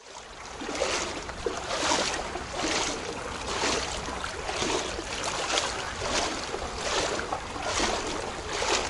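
Floodwater splashing in a regular rhythm, about once a second, over a low steady rumble.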